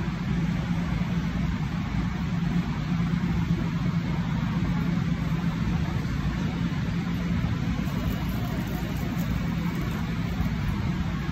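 Steady low rumble with a constant low hum of idling railway machinery at the station platform.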